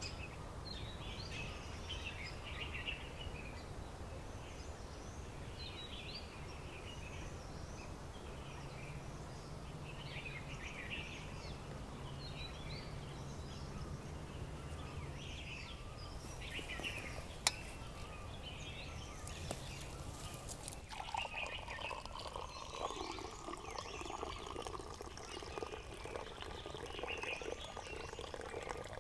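Wild birds chirping in short scattered phrases over a steady low background rumble. One sharp click comes about two-thirds of the way in, and a lower, wavering animal call joins soon after.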